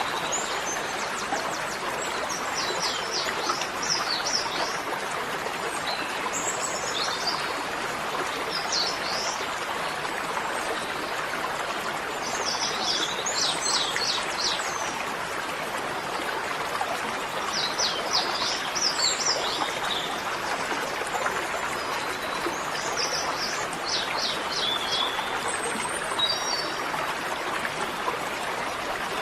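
Birds chirping in short, quick phrases every couple of seconds over the steady rush of running water.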